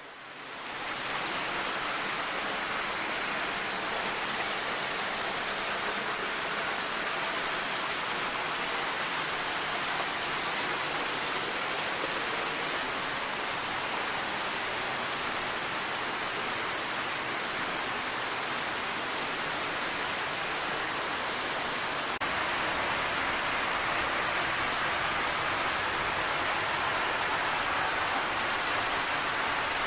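A waterfall's steady rushing, sounding like television static. It fades in over the first second and changes slightly about 22 seconds in.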